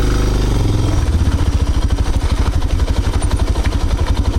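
Motorcycle engine running close by, loud; about a second in its sound turns into a rapid, even pulsing.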